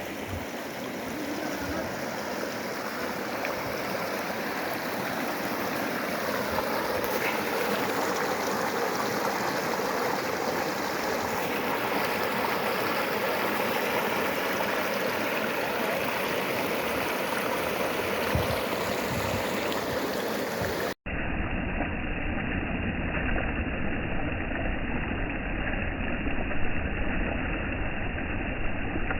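Rushing water of a stream, a steady hiss-like flow. About two-thirds of the way in it cuts abruptly to a duller recording with a steady low rumble.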